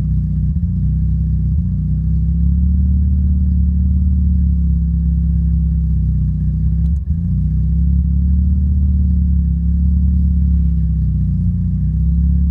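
Mazda RX-7 Turbo II's turbocharged 13B rotary engine running steadily, briefly cutting out about seven seconds in and catching again. The owner puts the cut-out down to the Megasquirt ECU randomly losing all signal and shutting down for a split second.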